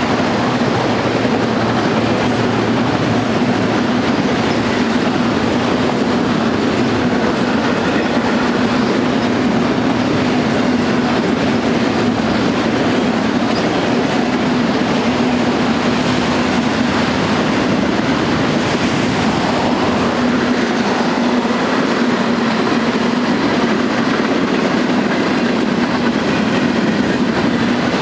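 Freight cars of a manifest train (autoracks, tank cars and covered hoppers) rolling past at steady speed: a continuous rumble and rattle of steel wheels on the rails with a steady low hum.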